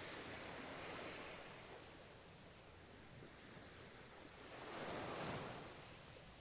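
Ocean waves washing in on the shore: a wave ebbs away early on, then another surges in about four and a half seconds in, peaks, and fades near the end.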